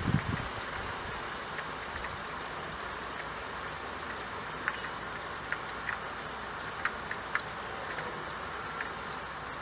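Steady rain falling, an even hiss, with scattered louder drops ticking sharply from about halfway through. A low rumble fades out at the very start.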